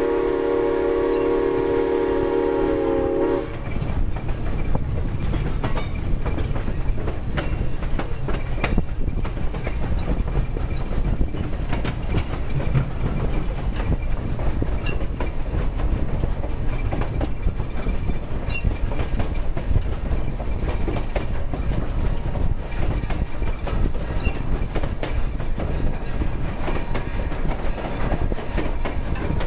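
A passing train sounds a loud, many-toned horn chord for about three and a half seconds, which cuts off sharply. Then a steady rumble of wheels clicking over the rail joints follows as the train rolls by.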